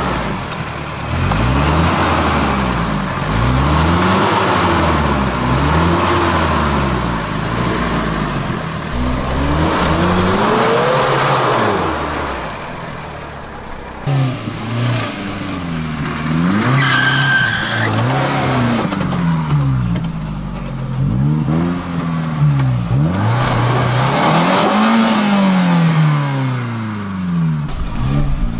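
Off-road 4x4's engine revving up and down again and again, a rise and fall every couple of seconds, as it is driven through rough terrain. A brief high-pitched squeal comes about two-thirds of the way through.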